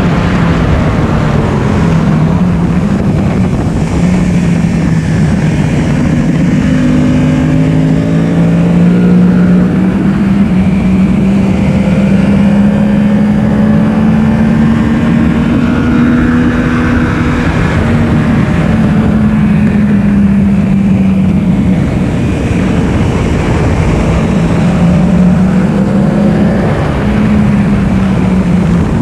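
Yamaha R1's inline-four engine running hard on track, its pitch slowly rising and falling as the bike accelerates and slows through corners, under heavy wind rush.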